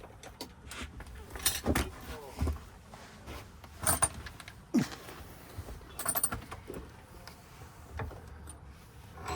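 Small metal parts of a Ford lock cylinder being handled during rekeying: scattered light clicks and clinks of lock wafers and tools, with a short cluster of clinks about six seconds in.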